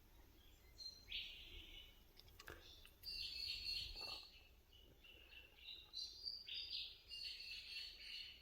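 Wild birds calling: several bursts of high, rapid chattering chirps, the loudest about three to four seconds in and another run from about six seconds on.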